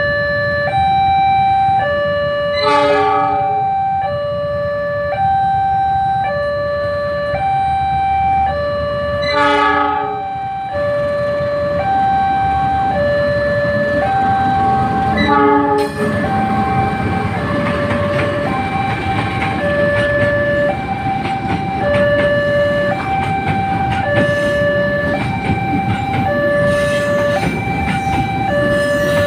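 Railway level-crossing alarm sounding an alternating two-note warning tone over and over, over the low rumble of a train, which grows heavier about halfway through. Short horn blasts cut in twice in the first ten seconds.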